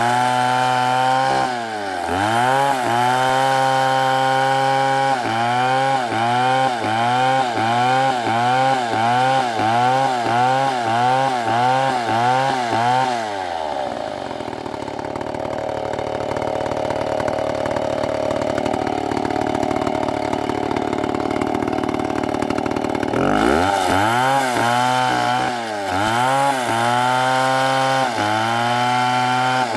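STIHL chainsaw cutting into a big redwood, its engine speed dipping and recovering in a regular rhythm about one and a half times a second as the bar works the cut. About halfway through the engine drops to a lower, rougher note for roughly ten seconds, then revs back up and cuts again in the same rhythm.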